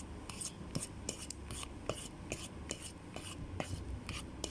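Fork scraping and clicking against a bowl while brownie batter is stirred, with short irregular strokes several times a second.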